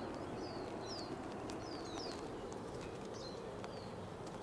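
Small birds calling faintly: short, high chirps that slide downward, repeated every second or so over a steady low hiss.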